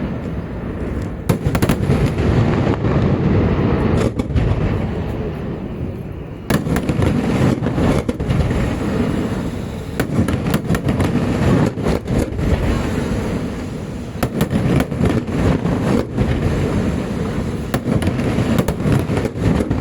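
Festival fireworks display: a rapid string of sharp bangs and cracks over a continuous low rumble of booms, growing denser about six seconds in.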